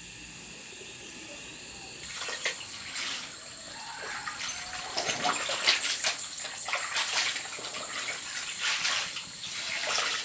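Water splashing and pouring in irregular gushes, starting abruptly about two seconds in. Before that there is a steady high hiss.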